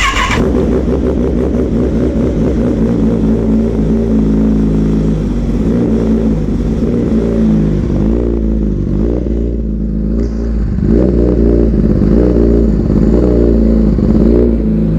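2019 Kawasaki ZX-10R's inline-four engine running through an Austin Racing exhaust with the silencer removed, revved up and down several times; really loud.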